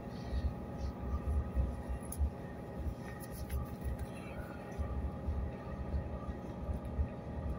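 Passenger train interior: a steady low rumble with a constant electrical hum.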